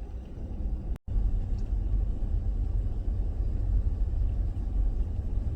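Steady low rumble of a minivan driving, heard from inside the cabin, with no other distinct events; the sound cuts out for a split second about a second in.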